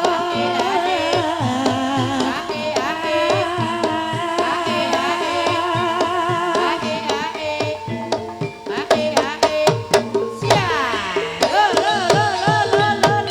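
Live ebeg dance accompaniment: Javanese kendang hand drums playing strokes that bend down in pitch, under a wavering melody with vibrato and sustained gamelan tones. The drumming turns busier with sharp strikes about nine seconds in.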